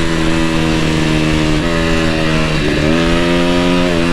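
KTM dirt bike engine running under way at a steady pitch, dropping briefly a bit past halfway and climbing back up as the throttle opens again.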